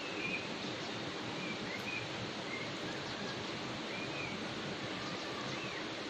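Faint short bird chirps, a few separate rising and falling notes, over a steady outdoor hiss.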